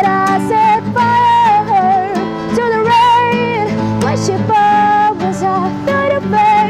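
A song: a singer holding long, wavering notes over guitar accompaniment.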